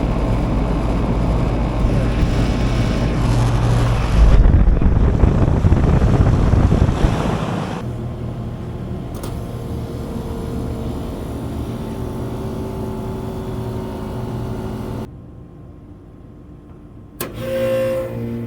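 Outdoor air-conditioner condensing units running: a steady machine hum that surges louder and rougher for a few seconds about four seconds in, then, after abrupt cuts, other units humming with a steady held tone.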